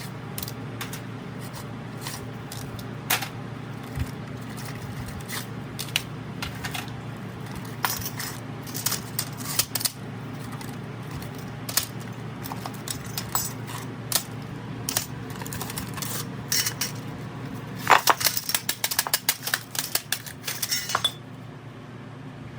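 Small metal parts and tools clinking and tapping on a hard surface, in irregular single clicks with a dense flurry of rapid clinks about eighteen seconds in, over a steady low hum.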